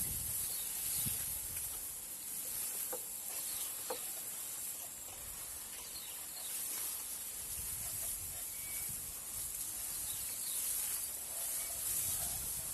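Steady high-pitched hiss of outdoor field ambience, with a few faint taps.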